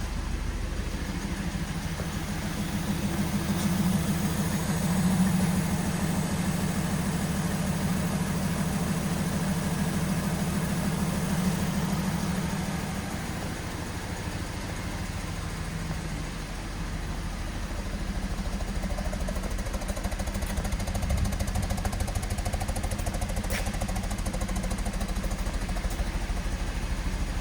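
2014 Lincoln MKX's 3.7-litre V6 engine running at a steady idle.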